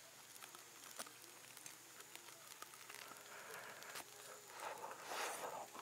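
Faint chewing of a crunchy chicken cartilage skewer, with small scattered clicks, and a brief breathy rush of noise near the end.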